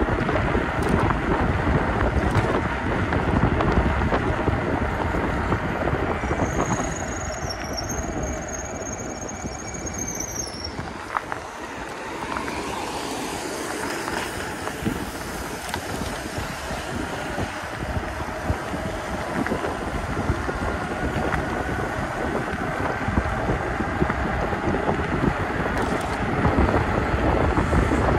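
Steady wind buffeting the microphone over rumbling tyre and road noise from an e-bike ridden on wet roads. A high thin squeal holds for a few seconds about a quarter of the way in.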